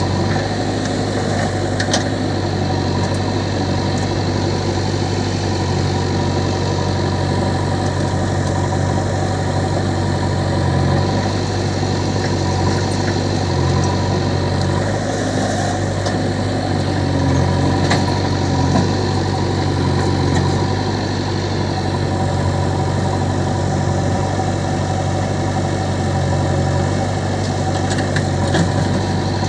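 Diesel engine of a working machine running steadily, its note shifting slightly now and then, with a few short knocks.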